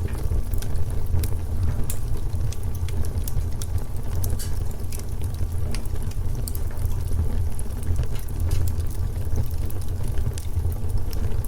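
Wood fire burning in a fireplace: a steady low rumble of flames with many small, sharp pops and snaps.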